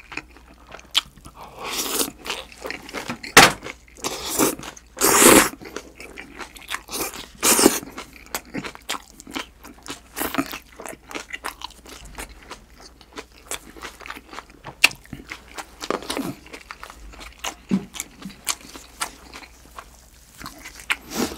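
Close-miked chewing and crunching of raw green-onion salad and pork belly, with many small wet mouth clicks. There are several louder crunchy bursts in the first half.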